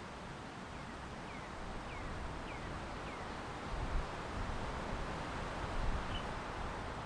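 Outdoor wind ambience with a small bird giving a quick series of five short, falling chirps early on, followed by a couple of low gusts of wind on the microphone.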